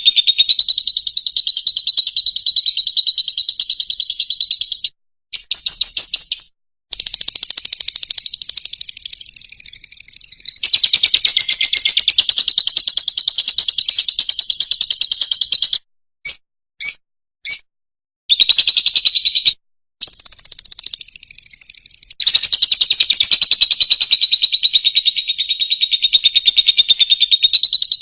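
Fischer's lovebird singing: long runs of rapid, shrill chattering trills held around one high pitch. They break off a few times, with three short separate chirps about two-thirds of the way through.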